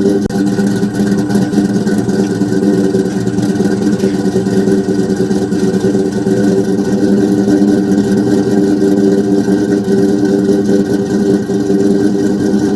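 Cammed Ford 4.6 V8 in a Mustang idling steadily through Flowmaster mufflers and an X-pipe.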